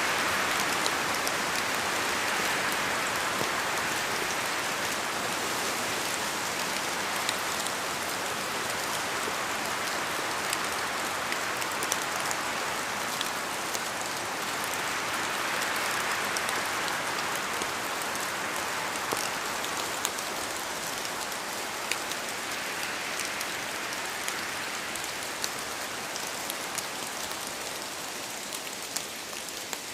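Steady rain in a forest, with drops falling from the trees tapping sharply here and there. The rush of the rain swells and eases a few times, and grows slightly softer near the end.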